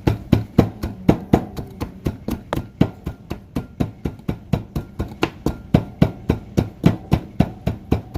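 A spoon knocking and scraping against a bowl while dried seasonings are mixed: quick, even knocks, about four a second.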